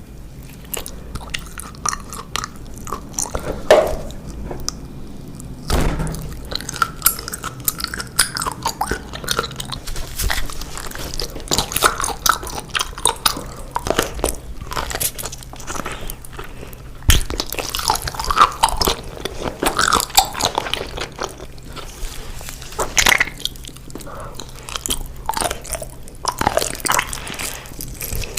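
Close-miked eating sounds: a person biting and chewing food, with many irregular sharp clicks.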